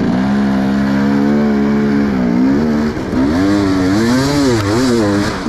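Enduro dirt-bike engine under throttle, held at a steady pitch for about two seconds, then revving up and down several times.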